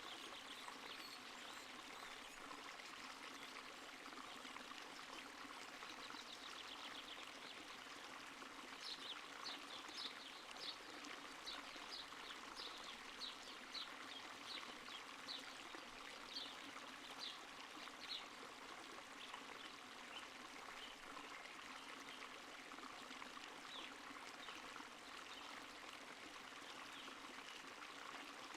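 Small stream flowing and trickling steadily. From about a third of the way in to just past halfway, a run of short, high, sharp ticks sounds over it, roughly one or two a second.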